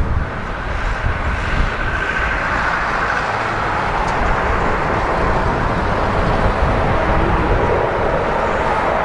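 Jet airliner engines with a steady rush and a faint whine, under gusty wind buffeting the microphone.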